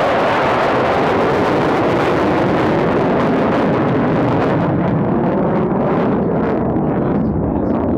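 Blue Angels F/A-18 Super Hornet jets flying past with a loud, steady jet-engine roar. The roar eases a little in the second half, with a ragged crackle in it.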